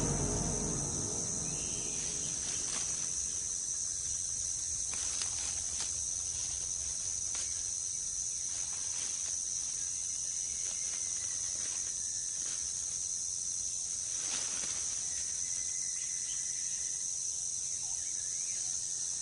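Steady, high-pitched insect chorus of the jungle, with a couple of faint thin whistles about halfway through and again a few seconds later.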